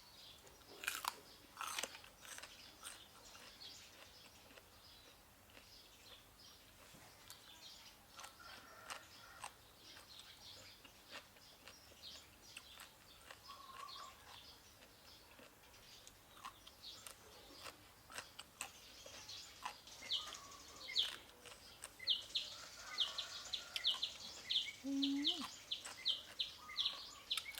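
A person eating crunchy food close to the microphone: crisp bites and chewing crunches. A bird chirps rapidly and repeatedly through the last third.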